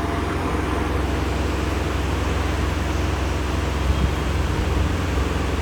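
Steady background noise of a car service workshop: a constant low rumble under an even hiss, with a brief faint knock about four seconds in.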